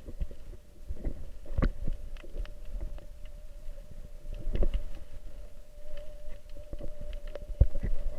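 Underwater sound: a steady low rumble with a thin continuous hum, broken by irregular knocks and clicks, the loudest about one and a half seconds in, midway, and near the end.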